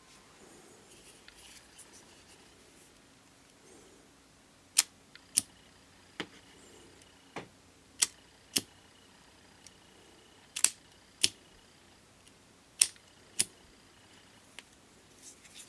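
Ronson De-Light Duplex lighter's spring-loaded lever action working: sharp metallic clicks in pairs about half a second apart, press and snap back, repeated four times with a few single clicks between.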